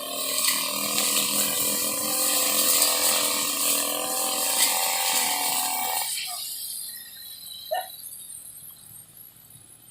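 Two-stroke brush cutter engine running steadily, then cutting out about six seconds in and winding down.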